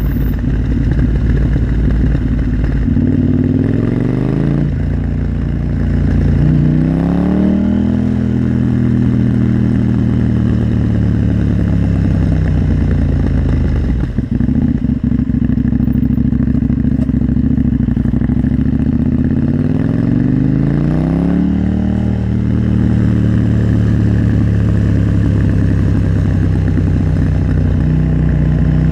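KTM 890 Duke R parallel-twin engine under way. The revs climb several times as the bike pulls through the gears, then hold steady while cruising. There is a brief throttle lift about halfway through.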